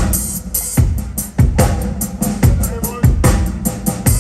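Live blues band playing an instrumental passage: a drum kit keeps a steady beat with strong kick and snare hits under pitched instrument lines.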